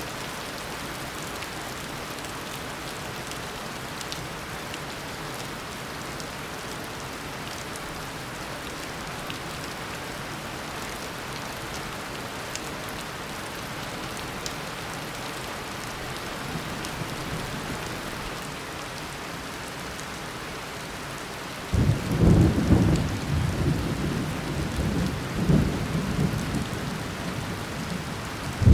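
Heavy tropical rain falling steadily, then about three quarters of the way in a sudden loud clap of thunder that rolls on in rumbling waves.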